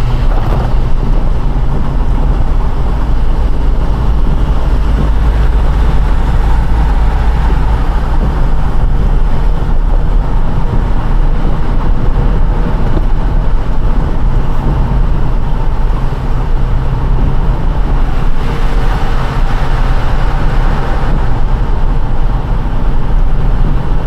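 A car driving on a rain-soaked road: a steady hiss of tyres and spray over a low road rumble. The hiss swells for a few seconds about three-quarters of the way through.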